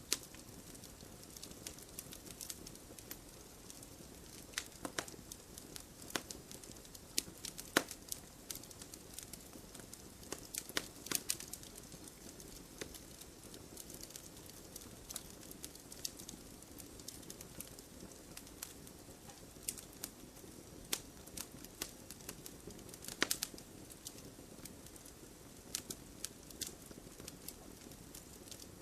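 Wood fire burning in a fireplace: irregular crackles and sharp pops of burning logs over a steady low hiss, a few louder snaps scattered through.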